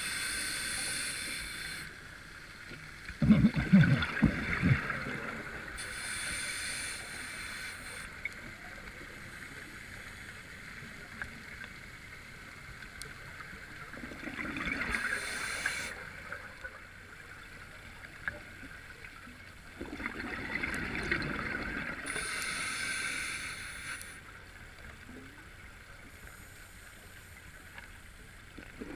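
A scuba diver breathing through an open-circuit regulator underwater: hissing breaths and gurgling exhaled bubbles come in cycles every six to eight seconds. A louder, low bubbling rumble comes about three seconds in.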